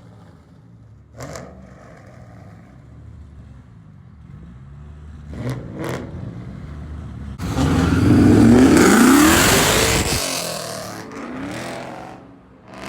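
Car engine running at a low idle with a few light clicks, then about halfway through a car revs up hard and accelerates, its pitch rising, the sound peaking and fading away over a few seconds.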